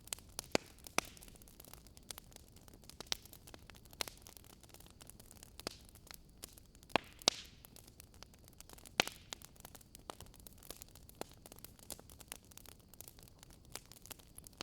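Wood fire crackling in a fireplace: irregular sharp pops and snaps over a soft hiss, the loudest pops about a second in, around seven seconds in and around nine seconds in.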